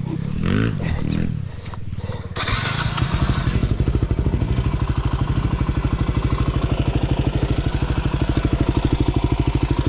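Single-cylinder enduro motorcycle engine. It runs low with its pitch rising and falling, then picks up sharply about two and a half seconds in and settles into a steady, even beat.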